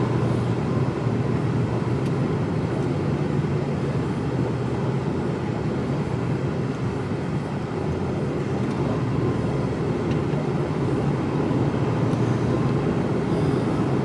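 Mercedes-Benz Actros lorry's diesel engine running steadily under way, heard from inside the cab as a constant low hum with road noise.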